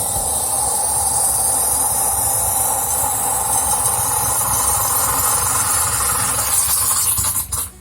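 Coffee maker letting out steam: a loud, steady hiss that cuts off suddenly near the end.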